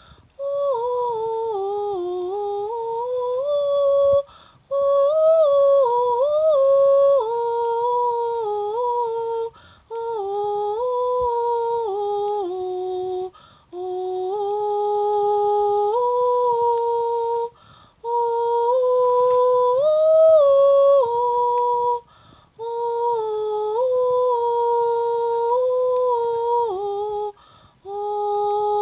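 A high voice humming a slow, wordless melody in held notes that step up and down, in phrases of about four to five seconds with short pauses for breath between them.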